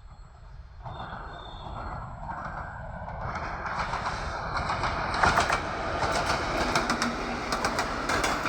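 TEP70 diesel locomotive hauling a passenger train, coming closer and growing steadily louder. From about five seconds in, sharp clicks of wheels over the rails join the engine's drone.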